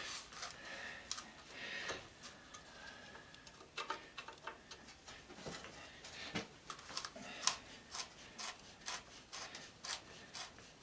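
Hand tools working screws out of a metal sander housing: irregular small clicks and ticks of tool on metal, with a louder click about seven and a half seconds in.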